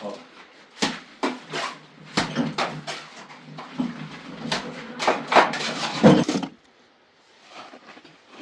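A run of irregular knocks and clatters, hard objects striking one another, over a faint steady hum; it stops about six and a half seconds in.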